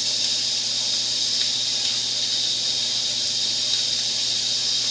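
Steady, even hiss of aquarium water being circulated and aerated, with a faint low hum underneath.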